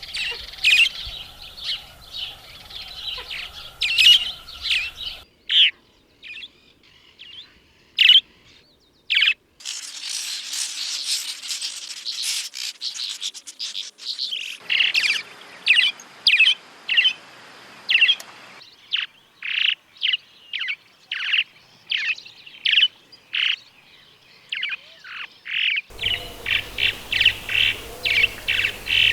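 Swallows calling: series of short, high chirps and twitters, some in quick runs, in several recordings cut together one after another.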